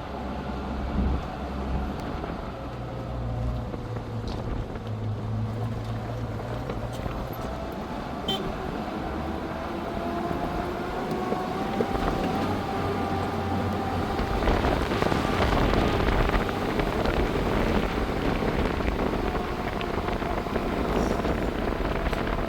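A motor vehicle's engine running steadily, with a low rumble and a pitch that drifts slowly up and down; the noise grows a little louder about two-thirds of the way through.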